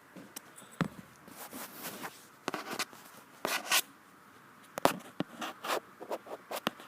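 Light clicks and taps from a finger on an iPhone 6s home button, irregularly spaced, with short scratchy rustles between them; the sharpest clicks come about a second in and near the middle.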